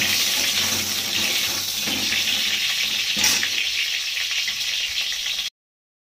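Potato pieces sizzling steadily as they fry in oil in an iron kadhai, stirred with a metal spatula, with a sharper scrape about three seconds in. The sound cuts off suddenly near the end.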